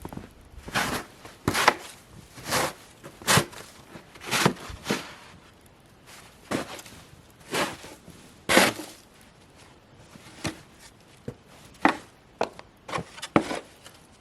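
Footsteps crunching through about four inches of fresh, wet, heavy snow, about one step a second with a few pauses and a quicker run of steps near the end.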